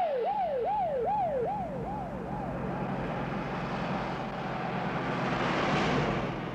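Police car siren on a fast yelp, each sweep falling in pitch, fading away in the first couple of seconds under a steady car engine. A car's rushing noise then swells to a peak near the end and fades.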